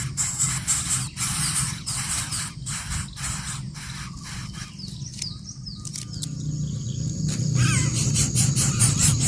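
Birds chirping in short, high, sliding calls over a steady low rumble, with scattered sharp clicks.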